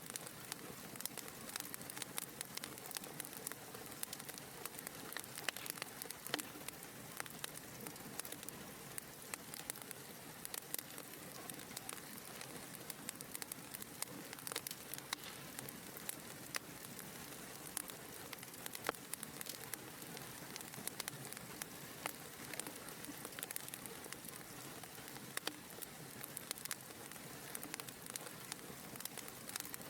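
Wood fire burning in a fireplace, crackling steadily with a constant soft hiss and frequent small, sharp pops.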